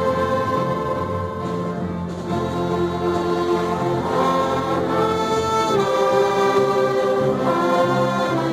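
A church orchestra with a strong brass section playing a hymn in slow, held chords that change every second or so.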